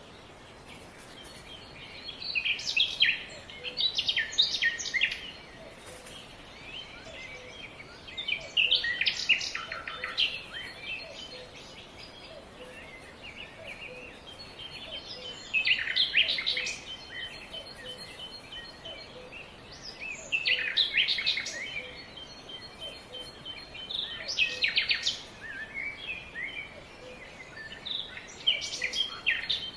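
Songbirds singing: a burst of quick, high chirping notes comes every four to six seconds, six times, with a faint thin trill between bursts over a steady background hiss.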